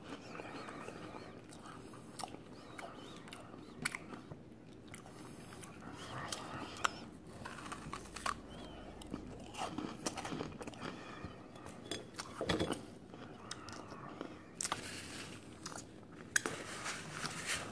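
Close-up biting and chewing of a large chocolate-dipped meringue, with scattered small crunches and wet mouth clicks.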